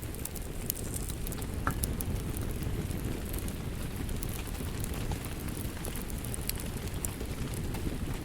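Steady rain with the sharp pops and crackles of a wood fire scattered through it.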